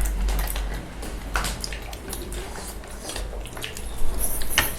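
Dishes and utensils clinking at a meal: scattered light clicks and taps, with a louder clatter about four seconds in.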